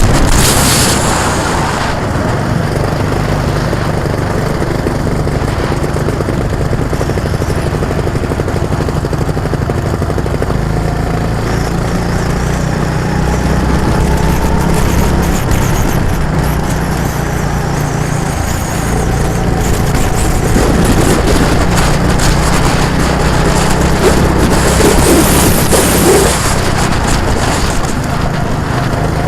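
An engine running steadily with a low drone, its pitch and level shifting a little partway through, with occasional gusts of noise.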